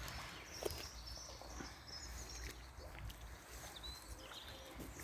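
Faint birdsong: short high chirps repeated throughout, over a steady low rumble of outdoor noise, with a couple of sharp clicks near the start.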